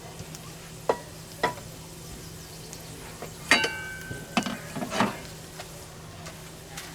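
Food frying in a pan with a steady sizzle, punctuated by sharp clinks of a utensil against the pan. About halfway through comes one ringing metal clang, followed by a short run of clattering.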